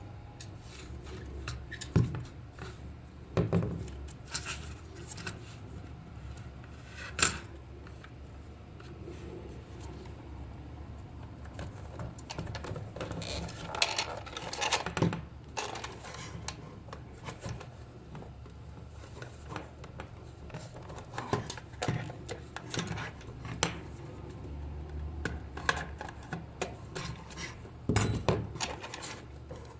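Scattered clicks, taps and clatter of small hard objects being handled and set down, with louder knocks about 2, 3.5, 7 and 28 seconds in, over a steady low hum.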